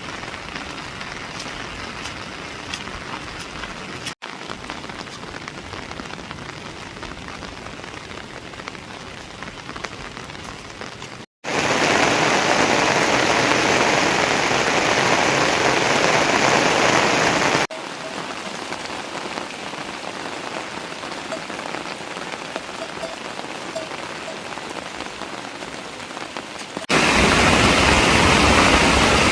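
Heavy monsoon rain falling in a steady hiss and patter, across several spliced takes. A much louder, denser downpour comes in suddenly about eleven seconds in and stops abruptly about six seconds later. Another loud stretch starts near the end.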